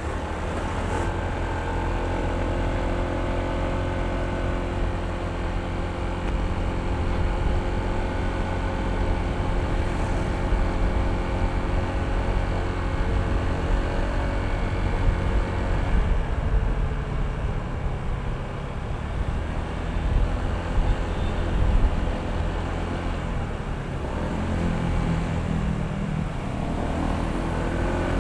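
Honda ADV160 scooter's single-cylinder engine running under way, its note drifting up and down with speed over a steady low wind rumble. Near the end the engine note dips and then climbs again.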